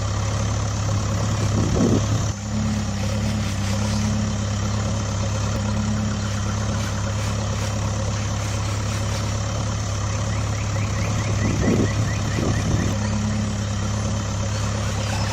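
Heavy truck engine running steadily with a low drone, swelling briefly about two seconds in and again about three-quarters of the way through.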